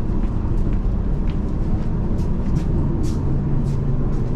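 Vintage railway passenger carriage running along the track, heard from inside: a steady low rumble of wheels on rail, with scattered sharp clicks and rattles.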